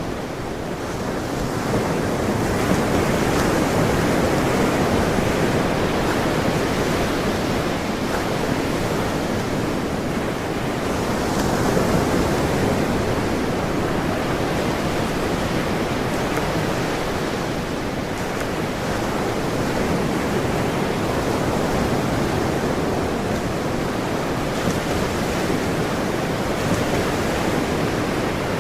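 Ocean surf: a continuous rush of breaking waves that swells and eases slowly, louder a few seconds in and again around the middle.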